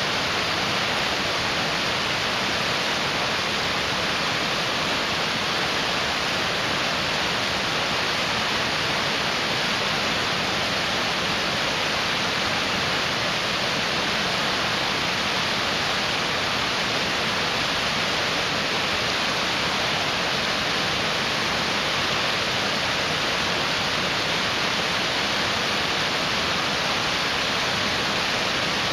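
Mountain stream rushing, a steady, even roar of water.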